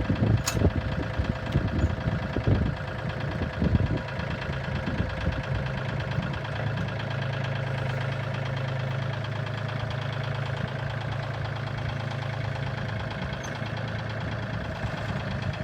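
Tractor engine running steadily at a low idle, with a few irregular low knocks and thumps in the first four seconds.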